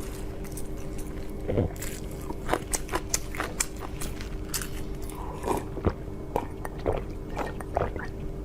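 Close-up eating sounds: a person biting and chewing food, with irregular crunches and wet mouth clicks several times a second.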